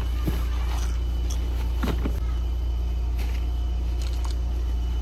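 Steady low hum of an idling car engine, with a few short knocks and clatters of a tent bag and folding plastic crates being loaded into the car boot.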